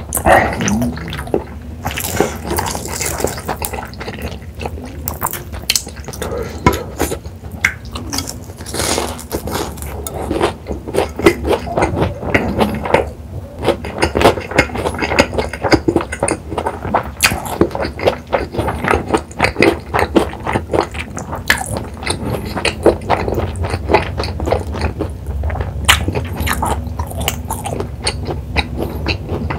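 Close-miked chewing of a mouthful of cheese pork cutlet and spicy stir-fried noodles: wet, crackly mouth sounds made of many quick irregular clicks and smacks.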